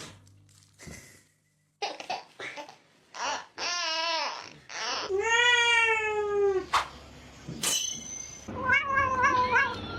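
A cat meowing: a short wavering meow, then a long drawn-out meow that sinks slightly in pitch, then three or four quick short meows near the end.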